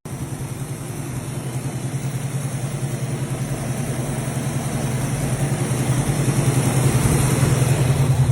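A 1963 Ford Anglia's four-cylinder engine running with a steady pulsing note. It cuts in suddenly at the start and grows gradually louder.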